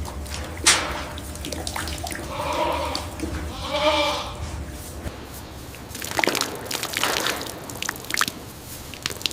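Water dripping and splashing with scattered clicks, a sharp click about a second in, and two short goat bleats about two and a half and four seconds in.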